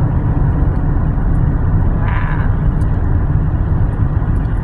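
Steady low rumble of road and engine noise inside a moving car, with a brief higher sound about two seconds in.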